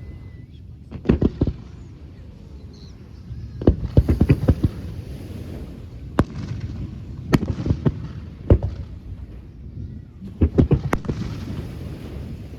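Fireworks display: clusters of sharp bangs from bursting aerial shells about a second in, around four seconds in and near the end, with single reports between, over a low rumble.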